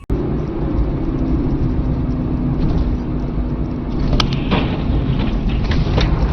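A car on the move heard from a dash camera: steady low engine and road rumble, with a few short clicks about four seconds in and again near six seconds.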